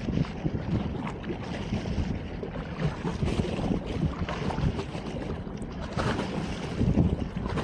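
Wind buffeting the phone's microphone: an uneven, gusting rumble.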